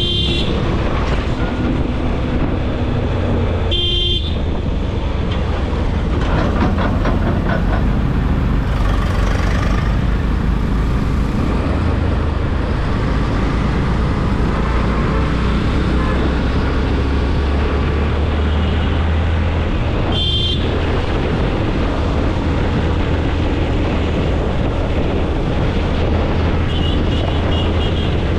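Riding in road traffic: a steady engine and road rumble with wind, broken by short vehicle horn toots about 4 seconds in, about 20 seconds in, and a softer one near the end.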